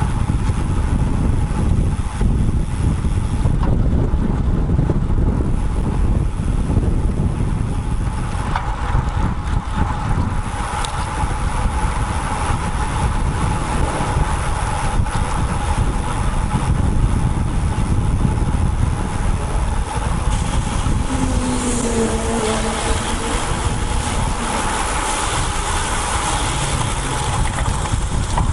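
Wind rumbling on the microphone of an action camera mounted on a moving road bike, with steady road noise. A short pitched tone falls slightly about three quarters of the way through.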